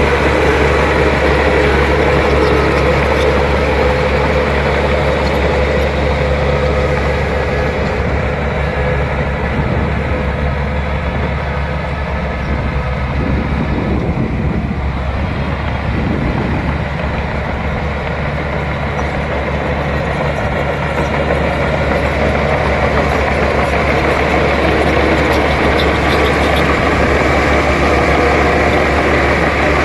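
Bulldozer's diesel engine running steadily under work, with a deep, even engine note that eases off a little in the middle and picks up again toward the end.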